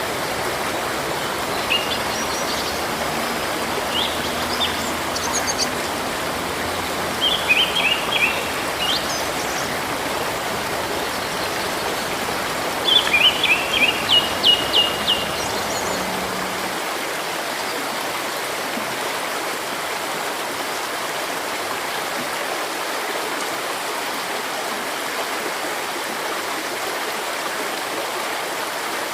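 A river or stream running steadily, with small birds singing short phrases of high chirps at intervals, the loudest a quick run of repeated notes about halfway through.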